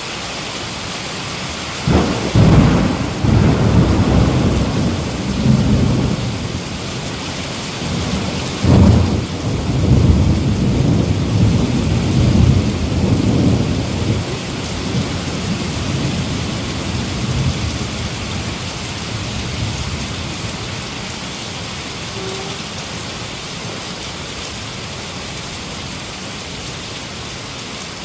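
Heavy rain falling steadily, with two claps of thunder, the first about two seconds in and the second about nine seconds in, rolling on as a low rumble and fading out over the following seconds.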